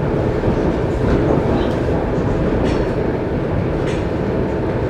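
ER2K electric multiple unit running, heard from inside a passenger car: a steady rumble of wheels and running gear, with a few faint clicks.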